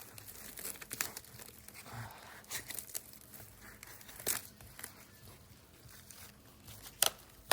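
Plastic packaging of stew meat being handled and opened: crinkling and tearing with scattered sharp clicks, two louder snaps near the end.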